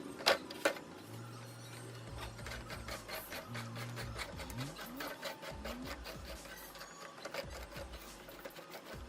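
Two sharp knocks, then a small electric motor whirring in short starts and stops, spinning up briefly several times, with fast light ticking throughout.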